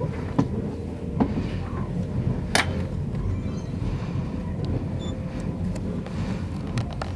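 Running noise inside a 485-series electric train car at speed: a steady rumble of the wheels on the rails, with a few sharp clicks from the track, the loudest about two and a half seconds in.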